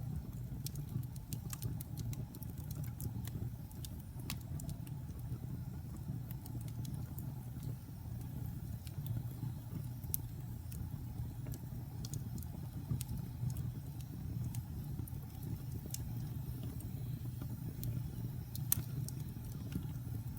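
Wood burning in a fireplace crackling: sharp pops and clicks come irregularly over a steady low rumble, with one louder pop near the end.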